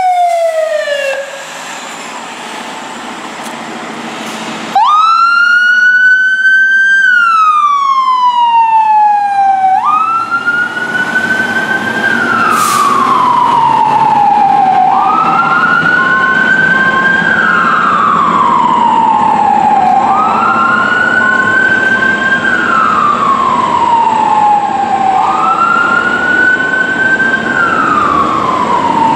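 Fire engine's siren on an emergency response. A short falling whoop at the start, then from about five seconds in it repeatedly winds up quickly and falls away slowly, about once every five seconds, over the truck's running engine.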